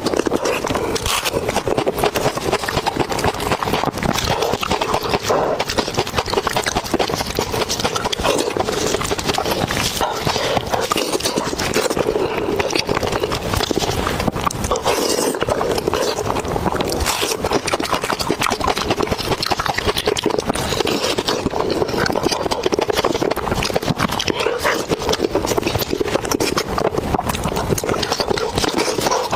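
Close-miked eating sounds of someone chewing braised pig's head: a dense, unbroken run of wet crunching and smacking clicks from the skin and cartilage.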